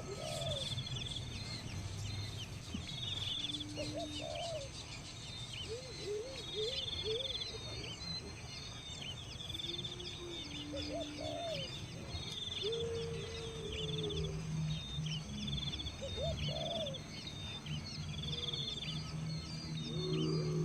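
Several birds calling at once: repeated short, high trills and many quick chirps, with lower swooping notes in between, over a low steady hum.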